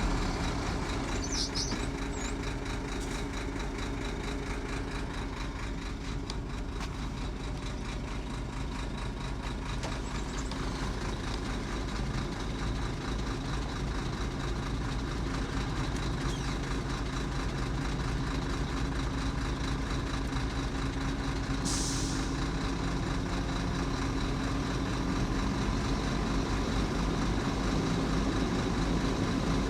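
Heavy diesel engine of earthmoving machinery running steadily. About two-thirds of the way through comes a short hiss of released air, like an air brake.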